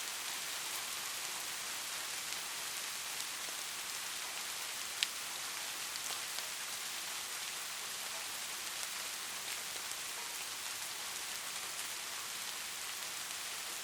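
Steady rain falling on a hard surface, a dense even hiss with scattered individual drops ticking; one sharp drip stands out about five seconds in.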